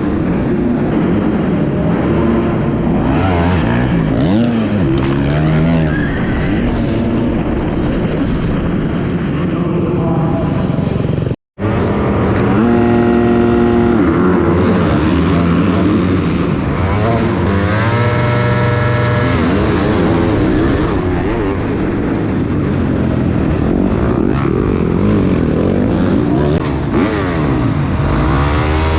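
Dirt bike engines racing on an arenacross track, revving up and down as the bikes accelerate and back off. The sound cuts out for a split second about a third of the way in.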